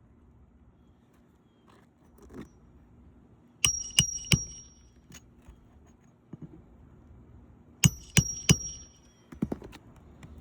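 Hammer blows on metal, two sets of three quick strikes about four seconds apart, each with a short bright metallic ring, as shingle nails are driven.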